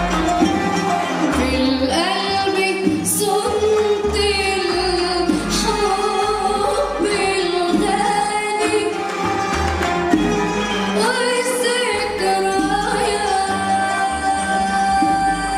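Live choir singing an Arabic song with instrumental accompaniment, women's voices prominent, the melody ornamented with bending pitch over a steady bass.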